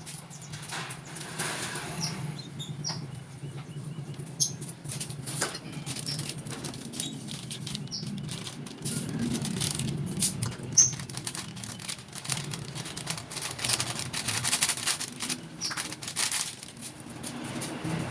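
Caged songbirds fluttering and flapping their wings, with scattered clicks and rattles and short high chirps throughout.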